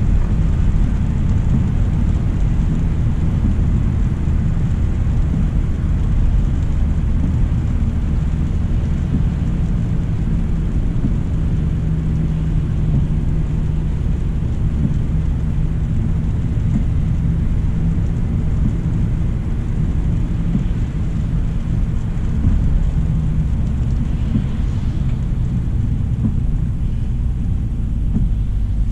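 2025 Hyundai Elantra SEL driving on a rain-wet road: a steady low rumble of tyre and road noise with a lighter hiss over it, unbroken throughout.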